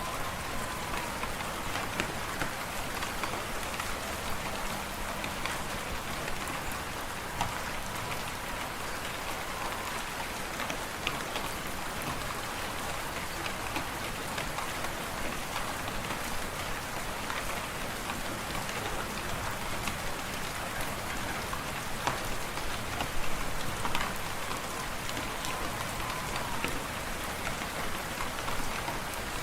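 Fireplace fire crackling: many small sharp pops and snaps over a steady hiss, a few louder pops near the end.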